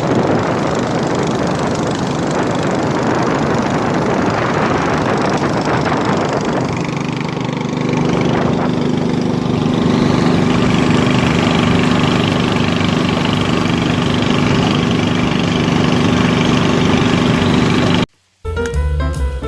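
Small engine running steadily, growing a little louder about eight to ten seconds in. It cuts off near the end, and music with a drum beat takes over.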